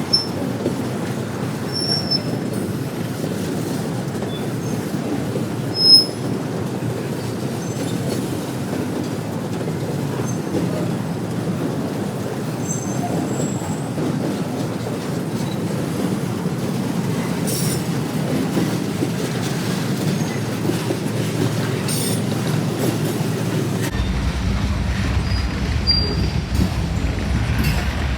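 Train cars rolling past with steady wheel and rail noise, broken by short high-pitched wheel squeals, the loudest about six seconds in. A deeper rumble joins near the end.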